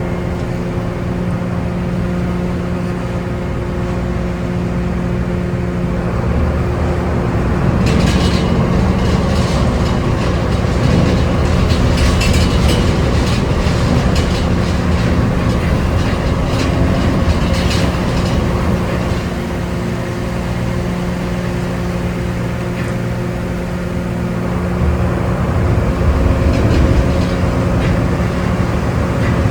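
Ferry Furutaka's diesel engines droning steadily while underway, with a low hum of several steady tones. A crackling, hissing noise rises over it for about ten seconds in the middle.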